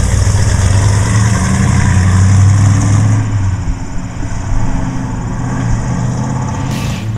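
1968 Chevelle SS's 454 big-block V8 running with a deep exhaust note, loudest for the first three seconds, then easing off.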